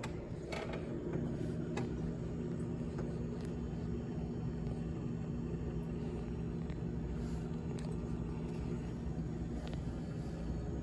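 GE GTH18XCTZRBB refrigerator running with a steady low hum made of several fixed tones, which gets slightly louder about a second in.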